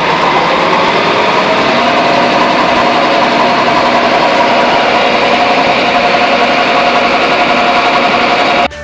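Truck-mounted cellulose insulation rig running loudly and steadily: the diesel truck engine driving its PTO generator, with a steady whine over a broad mechanical drone. It cuts off suddenly near the end.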